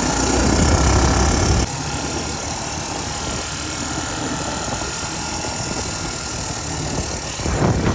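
Small dirt bike engine running under way, mixed with wind rush on the microphone. Loudest in the first second and a half, then steady, swelling briefly near the end.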